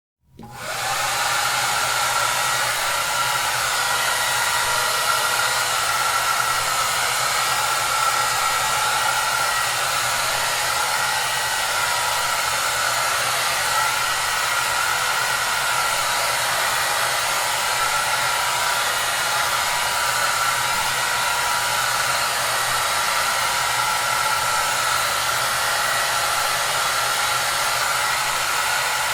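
Hair dryer running steadily: a constant airy hiss with a faint steady whine in it. It comes in from silence within the first second and then holds unchanged.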